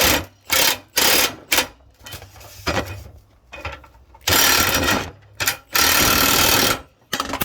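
Impact wrench hammering in repeated bursts as it runs a nut down onto a hydraulic cylinder's rod. There are a few short bursts at first, then two longer ones of under a second each in the second half.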